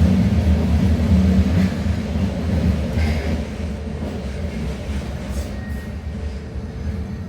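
AnsaldoBreda Ankaray light-metro train running on its rails, a low rumble with a few light clicks that gradually dies away. A faint thin whine comes in near the end.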